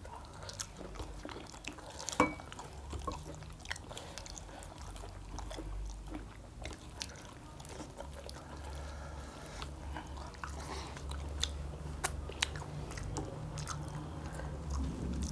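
A person chewing and biting into roast quail meat close to the microphone, with scattered sharp little clicks and crunches.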